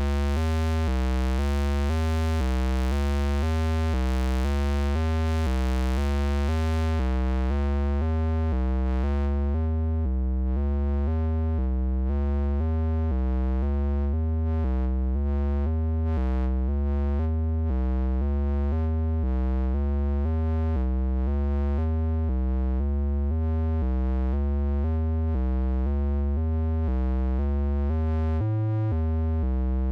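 Synthesizer playing a repeating pattern of alternating notes over a deep bass. About eight seconds in, its bright top end fades away, leaving a darker tone.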